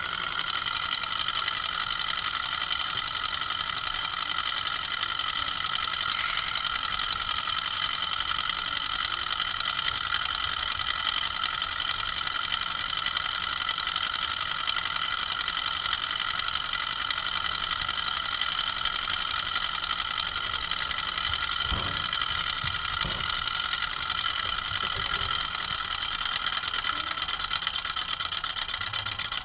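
Small alpha-type Stirling engine, heated by a candle flame, running steadily with a fast, even mechanical rattle and a steady high whir.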